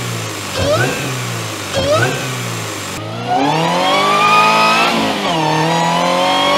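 Supercharged Toyota GR86 2.4-litre flat-four: two quick free-rev blips, then the car accelerating hard, its engine pitch climbing steadily, dipping briefly at an upshift about five seconds in, and climbing again.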